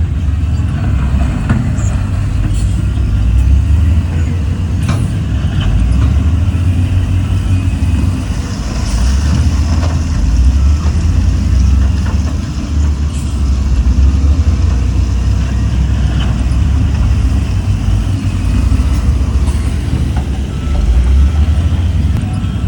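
Heavy diesel engine of earthmoving machinery running steadily under load, a deep low rumble that swells and eases a little, with a few sharp knocks and clanks scattered through it.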